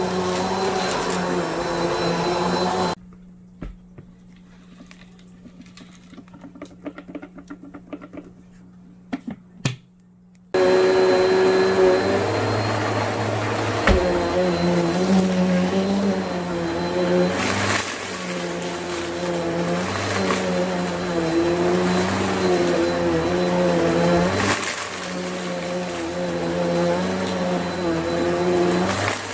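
Bissell vacuum cleaner running with a steady motor hum whose pitch wavers as it works. About three seconds in it drops away suddenly, leaving only faint clicks and handling noises. About seven seconds later it comes back on and runs with occasional sharp clicks.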